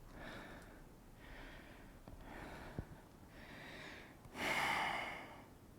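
A person breathing audibly through a held yoga pose: several short, soft breaths, then a longer, louder breath about four seconds in.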